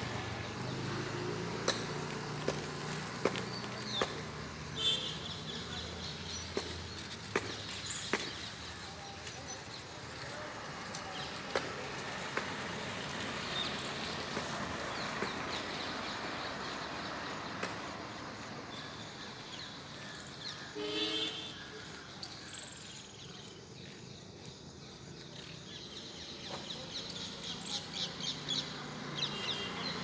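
Outdoor morning ambience: birds chirping here and there over a steady low background hum, with a quick run of high chirps near the end.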